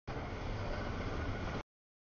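CSX double-stack intermodal freight train passing: a steady rumble and rush of wheels on rail, which stops dead about one and a half seconds in as the audio drops out.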